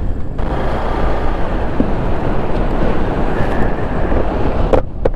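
Wind rushing over an action camera's microphone on a moving motorcycle, a Hero XPulse 200, as a steady loud roar. There are a couple of sharp clicks near the end.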